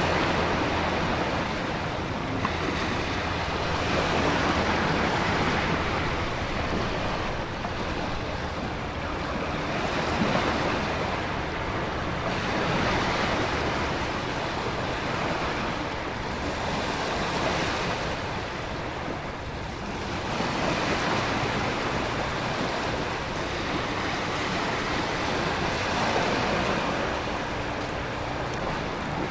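Storm surf and heavy rain: a continuous rushing hiss that swells and eases every few seconds as waves surge and recede, with wind in it.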